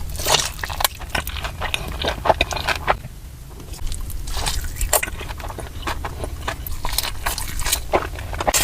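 Close-miked eating sounds: crisp crunching and chewing of crispy fried chicken, in several clusters of rapid crackles with short pauses between.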